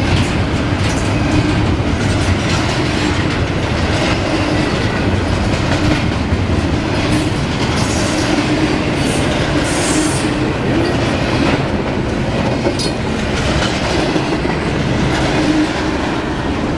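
Double-stack intermodal freight train's well cars rolling past at close range: a steady, loud rumble of steel wheels on the rails with clickety-clack over the rail joints.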